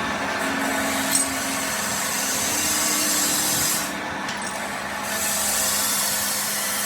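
A power tool working on metal, running steadily with a hissing, abrasive noise. It eases briefly about four seconds in, and there is a single sharp click about a second in.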